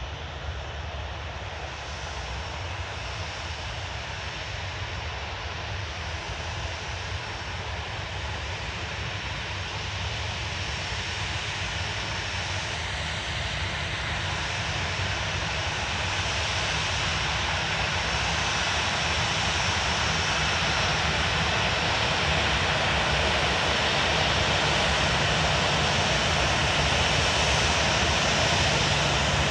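Boeing 737-800's CFM56-7B jet engines running as the airliner approaches, a broad, even engine noise that grows steadily louder.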